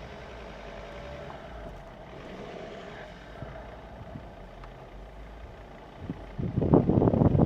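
SUV engine running steadily with a low rumble while driving on an off-road trail. About six seconds in, a louder, uneven stretch of sound breaks in.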